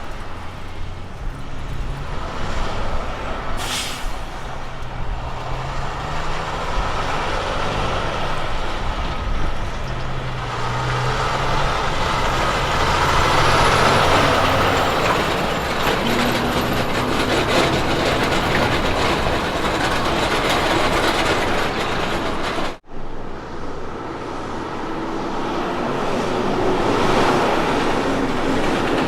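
Heavy road-train truck engine pulling through the gears, its note stepping up and down, with tyre and trailer noise swelling as it passes. The sound breaks off abruptly about two-thirds of the way through, and another heavy vehicle pass builds after it.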